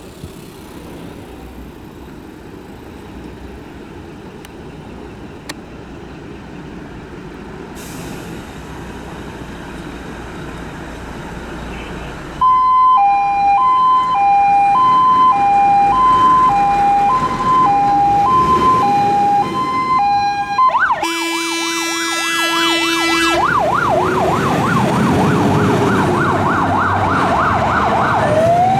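Scania P380 fire engine pulling out on an emergency call: the truck's engine runs for about twelve seconds, growing louder. Then a two-tone siren switches on, stepping between a high and a low tone. About eight seconds later it changes to a fast warbling yelp, with a steady horn blast for two or three seconds, and near the end it starts into a rising wail.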